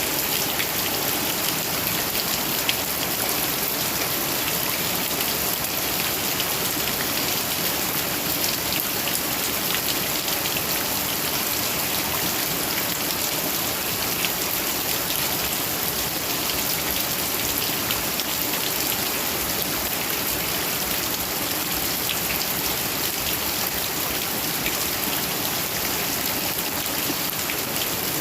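Heavy rain falling steadily: a dense, even hiss with scattered faint drop ticks.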